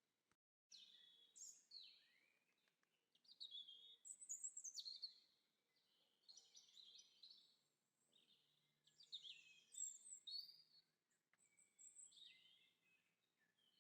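Faint birdsong: high chirping and warbling phrases from small songbirds, repeating every second or so, with a momentary cut-out in the sound near the start.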